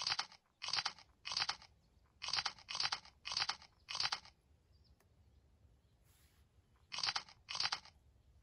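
A person chewing crunchy food, mouth close to the microphone: a quick run of crunching bites, about two a second, then a pause of a few seconds and two more bites near the end.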